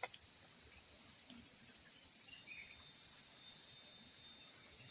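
Insects calling in a steady, shrill chorus that dips briefly about a second in and then comes back.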